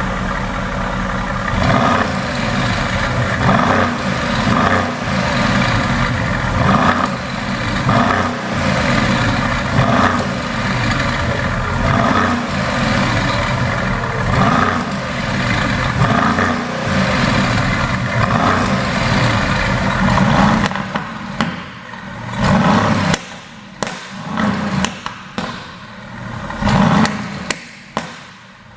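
Mercedes-AMG GT S's twin-turbo V8 with a tuned exhaust, blipped over and over, about one rev every one to two seconds. In the last third the revs are followed by sharp pops and crackles from the exhaust as the throttle closes.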